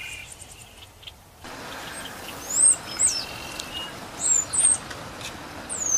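A small songbird calling: about half a dozen short, high, sharp notes, each rising quickly and then dropping, starting about two and a half seconds in, over a steady background hiss of outdoor ambience.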